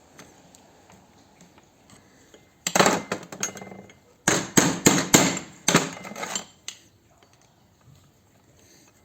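Sharp metal-on-metal knocks as a brass gas cooktop adjustment valve is forced apart with a screwdriver: a cluster of blows about three seconds in, then a quick run of about six more.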